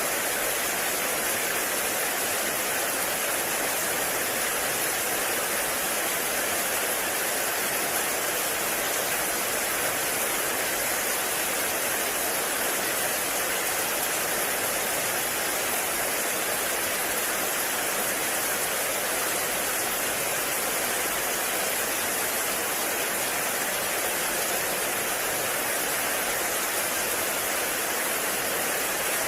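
Heavy rain falling steadily, an even, unbroken hiss that neither builds nor fades.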